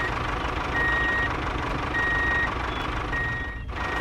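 Vehicle reversing alarm beeping, a single high tone about half a second long repeating roughly every 1.2 seconds, over a steady engine rumble.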